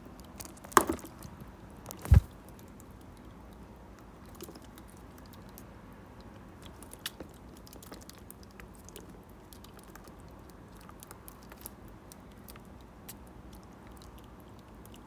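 Budgerigar nibbling and clicking its beak at close range: scattered small crisp clicks, with two louder knocks in the first two seconds.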